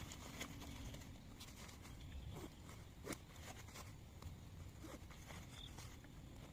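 Raindrops ticking irregularly on tent fabric, one sharper hit about three seconds in, over a faint low rumble.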